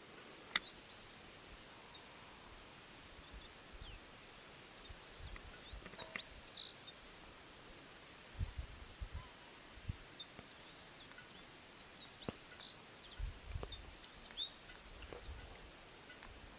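Faint outdoor ambience: scattered short bird chirps over a steady hiss, with irregular low rumbles that come and go, strongest in the second half.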